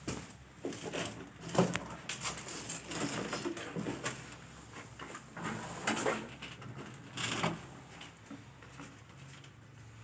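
Irregular knocks, clicks and scraping of objects being handled, the sharpest knock about one and a half seconds in.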